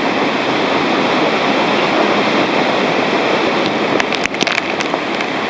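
Pailón del Diablo waterfall close by: a loud, steady rush of falling water, with a few short crackles near the end.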